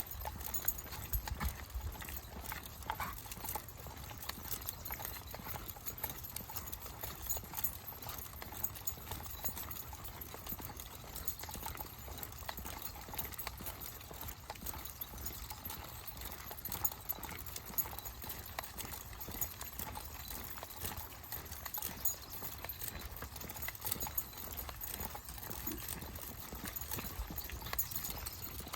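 Steady, irregular footsteps crunching on a dirt and gravel trail, from a walker and a pack of dogs, over a low rumble of wind on the microphone.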